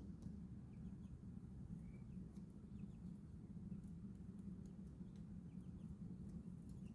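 Faint, scattered peeps of baby chicks, with light clicks throughout over a steady low hum.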